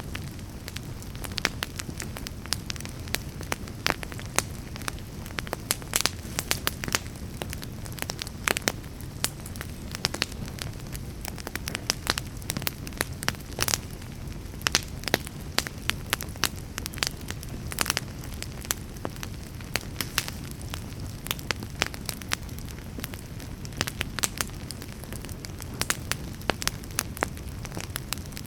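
Wood fire in a fireplace crackling, with frequent irregular sharp pops of burning wood over a steady low rumble of the flames.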